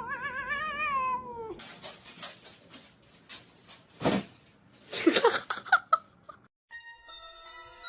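A cat yowling in one long, warbling caterwaul that breaks off about a second and a half in. Scuffling noises and a few short cries follow, then a short gap, and light bell-like music starts near the end.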